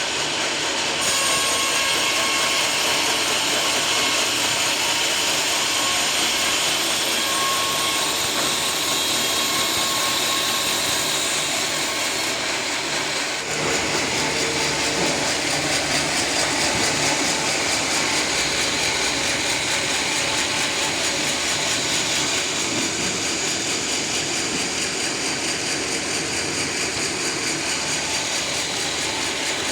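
Sawmill blade sawing through a teak log, a steady loud mechanical noise. It changes character about a second in, and dips briefly about halfway through before carrying on.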